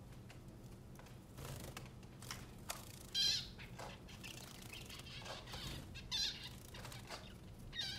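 Small pet birds bathing, fluttering their wings in the water with light splashing, and chirping three times, the first chirp the loudest.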